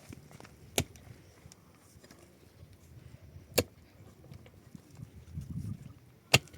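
Three sharp, single blows, a little under three seconds apart, with faint rustling and shuffling between them.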